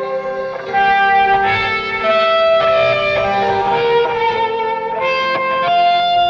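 Live rock band music, led by an electric guitar playing a melody of held notes.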